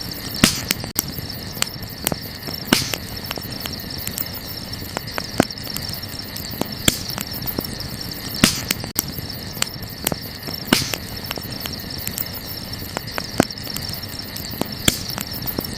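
Wood campfire crackling, with irregular sharp pops and snaps, a few of them much louder than the rest. Under it runs a steady high-pitched trill of night insects.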